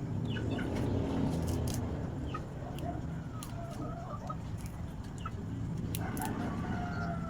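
Chickens clucking in short calls, a few about three seconds in and a longer run near the end, over a steady low rumble.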